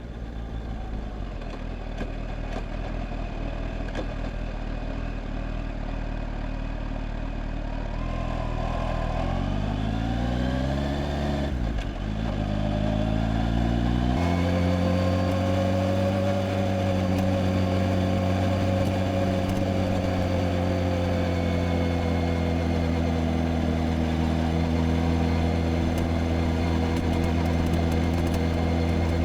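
Kawasaki Z H2's supercharged inline-four running steadily. Its note climbs in pitch as it speeds up about nine to eleven seconds in, breaks off briefly near twelve seconds, then settles into a steady, slightly louder drone.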